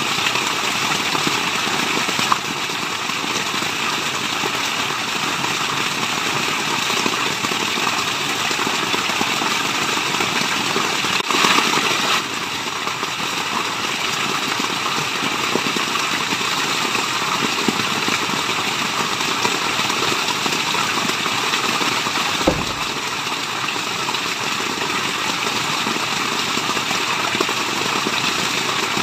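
Waterfall: a steady, even rush of falling water, with a brief low thump about three-quarters of the way through.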